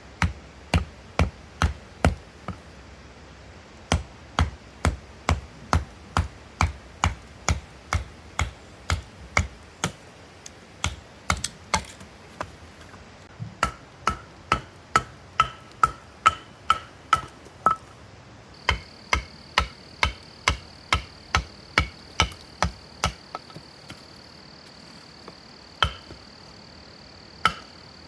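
Firewood being split by hand: rapid, regular blade strikes into wood, about two to three a second, some with a short metallic ring. The strikes pause briefly twice. About two-thirds of the way in, a steady high-pitched whine joins them.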